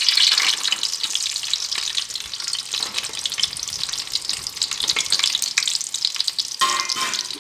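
Chopped fresh coconut pieces sizzling and crackling in hot coconut oil in a metal pan. It is loudest in the first second as they hit the oil, then settles into a steady crackle.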